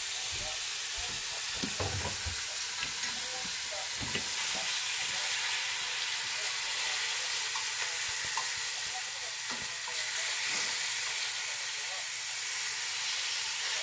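Sukiyaki ingredients sizzling steadily in a hot pan, with a few light knocks of a utensil against the pan in the first few seconds.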